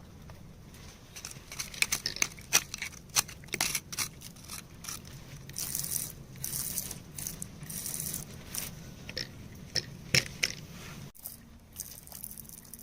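Hand tool scraping and chipping at rock and soil: irregular clicks, crunches and scrapes, most frequent about two to four seconds in.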